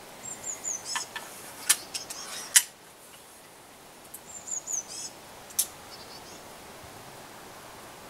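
A songbird singing two short phrases about four seconds apart, each a run of high chirps that fall in pitch, ending in sharp clicking notes.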